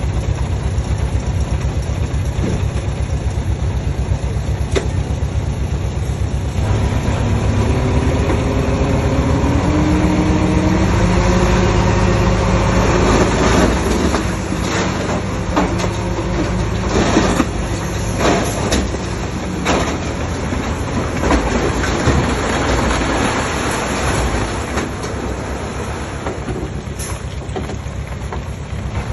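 Komatsu D20P crawler bulldozer's diesel engine running under load, its pitch rising as it revs up about a quarter of the way in. Through the middle comes the clanking and knocking of steel tracks, then the engine settles back to a steady drone near the end.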